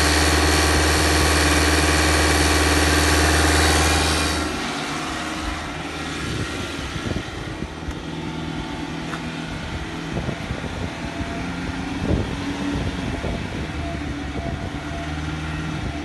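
Renault 1.5 dCi K9K four-cylinder diesel engine running, fitted in the car before removal. It is louder for the first four and a half seconds, then settles to a quieter steady idle with a few short knocks.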